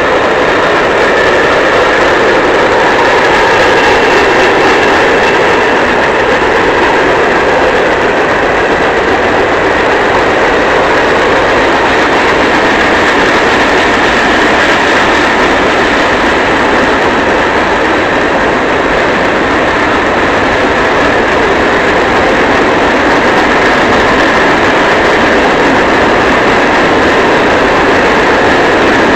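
Norfolk Southern freight train of empty coal hoppers rolling past, a loud steady noise of its wheels on the rails.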